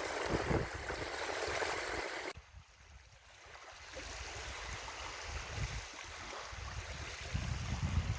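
Wind and waves on a lakeshore: a steady rushing wash with wind rumbling on the microphone. The sound cuts out abruptly a little after two seconds in and fades back up over the next couple of seconds.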